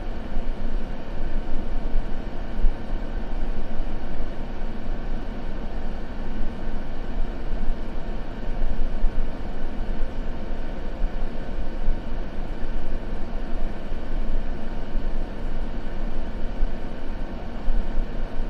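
Continuous ambient sleep noise, a steady deep rumble weighted toward the bass, with no breaks or separate crackles.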